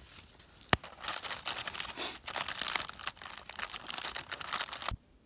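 Wood campfire crackling close by: a dense run of small crackles with one sharp pop about 0.7 s in, cutting off suddenly near the end.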